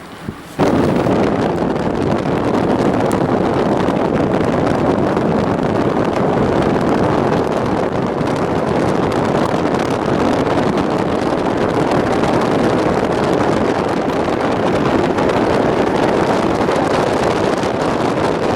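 Steady rushing noise of a moving train, wheels on the track mixed with wind on the microphone, starting abruptly under a second in.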